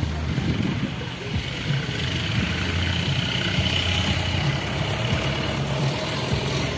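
A motor engine running steadily with a low rumble, and a faint high steady whine in the middle.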